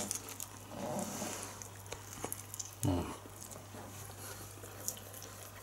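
A person chewing a mouthful of food, with faint wet mouth and lip clicks and a short closed-mouth murmur about three seconds in.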